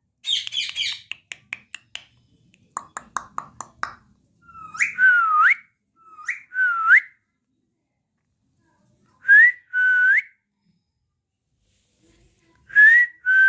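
Pet parrot whistling a two-note phrase four times, each a short upward note followed by a dipping one, after a burst of scratchy chatter and a run of quick clicks in the first few seconds.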